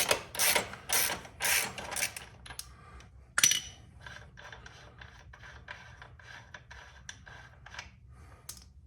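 Ratchet wrench spinning the rear axle nut off a motorcycle. Loud rasping ratchet strokes about twice a second for the first two seconds, one sharp metallic clank about three and a half seconds in, then fainter, quicker ratchet clicks.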